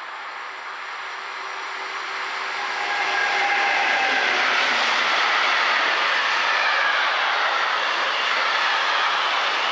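DB class 152 electric locomotive hauling a container freight train past: the train noise grows louder over the first three seconds or so as the locomotive comes up and passes, then holds steady as the container wagons roll by on the rails.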